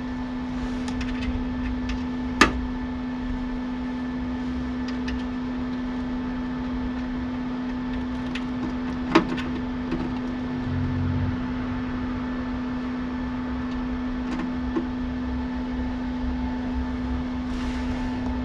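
A steady electrical hum with a few sharp metallic clicks and knocks, the loudest about two seconds in and again near the middle, as a steel repair plate is handled and positioned against car bodywork.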